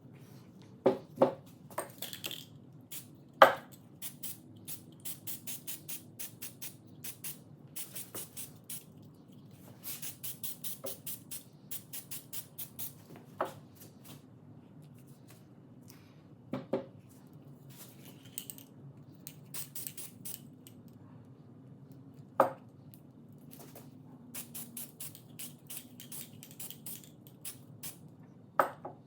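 Workshop hand-tool work: runs of quick, evenly spaced strokes, about three or four a second, broken by a few louder sharp knocks, over a steady low hum.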